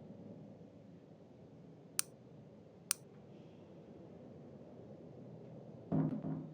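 Two sharp clicks about a second apart, then a louder dull knock near the end, over a faint low hum.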